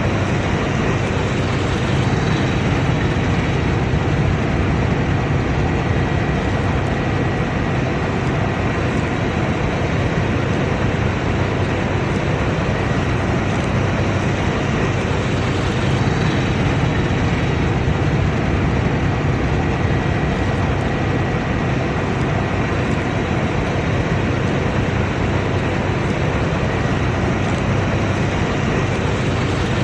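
Large combine harvester running steadily at work: a continuous, unchanging drone of diesel engine and threshing machinery, with a faint steady high whine above it.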